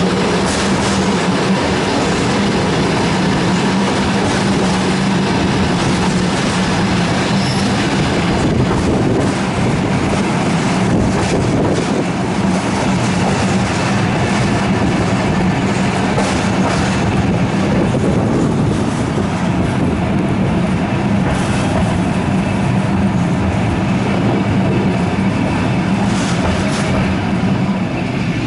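Passenger train running at speed, heard from aboard a carriage: a steady rumble of wheels on the track with a constant low hum and occasional sharp clicks.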